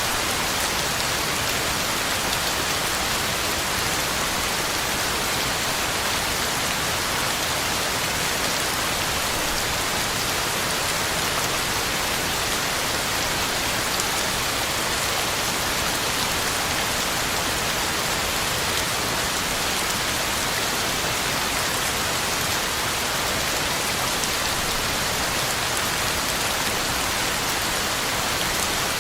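Heavy rain falling steadily, a dense even hiss of drops pattering on the ground and leaves.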